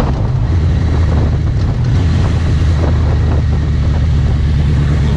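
Wind buffeting the microphone over the steady drone of a Suzuki GSX650F's inline-four engine while riding.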